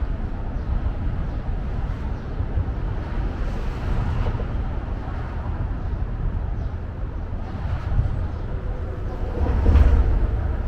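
Outdoor city background by a riverside park: a steady low rumble with no clear single source, swelling briefly louder about nine and a half seconds in.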